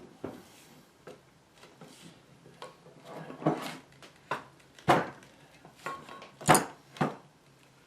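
Separate sharp knocks and clinks of hard objects being handled and set down on a work surface, the loudest about five seconds in and again around six and a half seconds.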